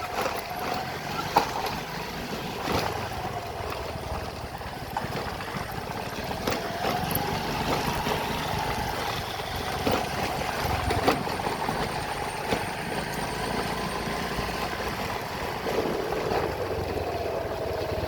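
Vehicle engine running while travelling along a road, its whine slowly rising and falling with speed, over steady wind and road noise, with a few sharp knocks.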